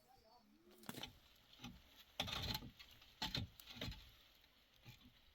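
A dove coos once at the start, followed by a run of irregular short knocks and scuffs, the loudest a couple of seconds in.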